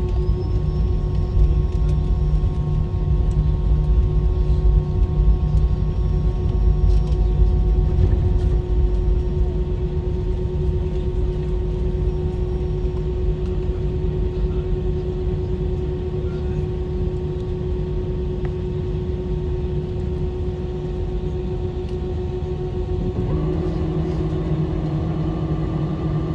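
Cabin noise inside a Qatar Airways jet airliner rolling on the ground after landing: a steady low rumble with a constant hum, a little louder in the first several seconds.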